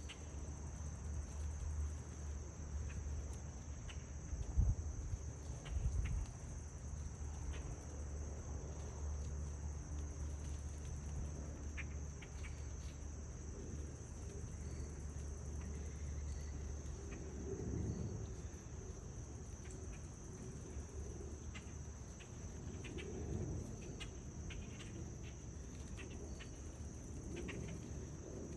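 Steady, unbroken high-pitched chorus of crickets, with a low rumble underneath and a couple of soft thumps about four and a half and six seconds in.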